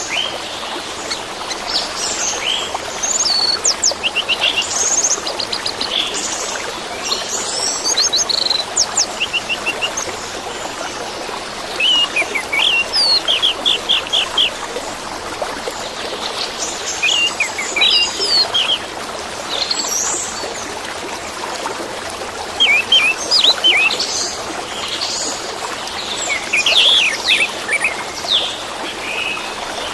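Orange-headed thrush singing a varied song of short phrases and quick trills, over the steady rush of running water.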